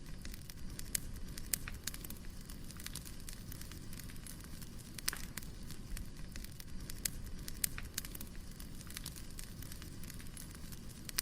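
Wood fire burning: a steady low rumble of flames with irregular sharp crackles and pops from the logs.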